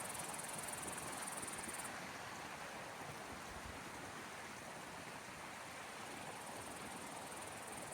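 Steady wash of sea waves, with a high steady trill over it that stops about two seconds in.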